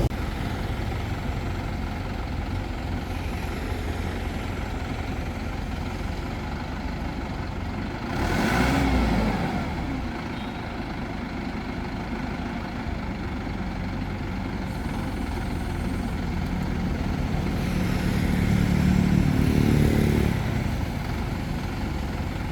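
A heavy crane engine running steadily, revving up briefly about eight seconds in and again for a couple of seconds near the end.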